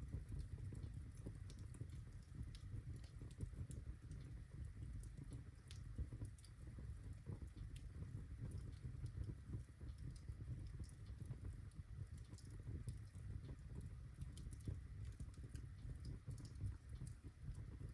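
Birchwood fire crackling in a fireplace: many small, irregular pops and snaps over a steady low rumble.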